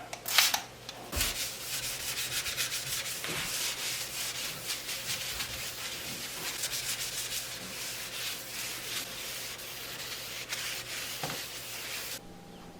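Fast, steady back-and-forth scrubbing of a kitchen surface, with a few knocks at the start, stopping abruptly near the end.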